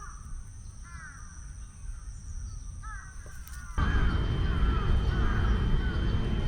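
Crows cawing repeatedly over a low background rumble. A little past halfway the rumble suddenly becomes much louder while the cawing carries on, joined by a faint steady high tone.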